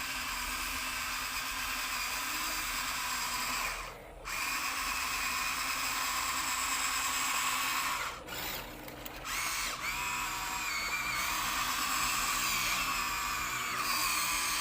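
Small electric motor of a radio-controlled toy vehicle whining, its pitch wavering as it runs. It cuts out briefly twice, about four seconds in and again for about a second and a half around eight seconds in.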